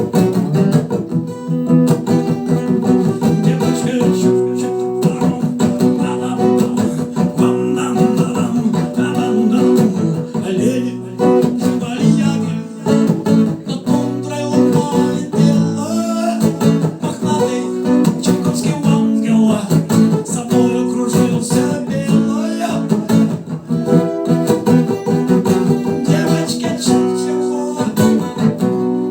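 Music: an instrumental passage of a rock song, with strummed guitar.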